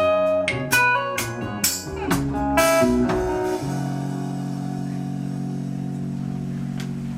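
Live band ending a song: picked guitar notes over sharp drum hits, then a final chord struck about three and a half seconds in and left ringing steadily.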